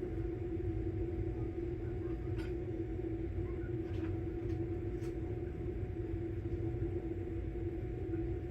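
Samsung Bespoke Grande washing machine running its quick cycle: a steady low rumble with a constant motor hum, and a few faint ticks in the middle.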